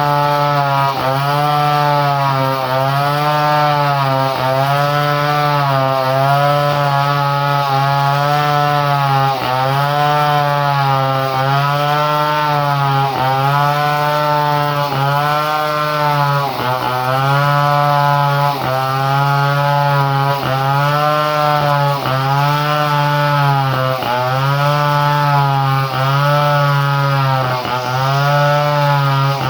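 Two-stroke chainsaw engine running at high speed, its pitch dipping briefly and recovering about once a second in a steady rhythm.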